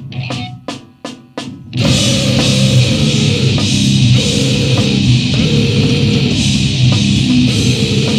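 A grindcore band playing: evenly spaced drum strikes, a little over two a second, then about two seconds in the full band crashes in with heavily distorted guitar, bass and drums as a dense, loud wall of sound that holds.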